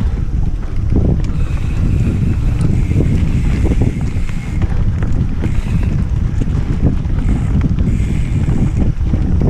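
Heavy wind buffeting on the microphone of a mountain bike's on-board camera while riding, with scattered knocks and rattles from the bike on the trail.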